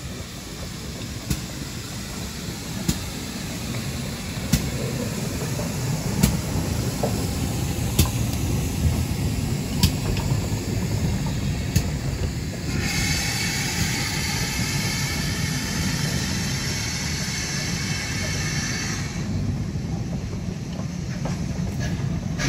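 Coaches of a steam-hauled passenger train rolling slowly past: a steady low rumble with a sharp click of wheels over rail joints every second and a half to two seconds. A high hiss joins in about halfway through and lasts about six seconds.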